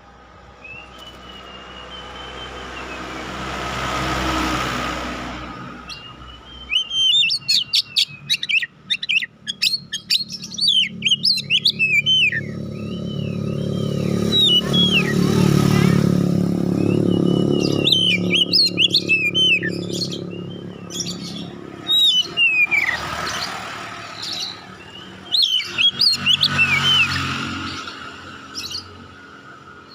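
Oriental magpie-robin (kacer) singing: a whistled phrase, then from about seven seconds in, repeated bursts of rapid sharp chirps and sliding whistles. Underneath, a low rumble of passing vehicles swells and fades several times.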